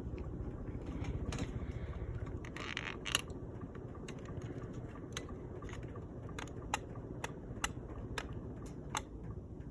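Monte Carlo cast ceiling fan running on high speed with a steady low whir, with light clicks at irregular spacing through most of it.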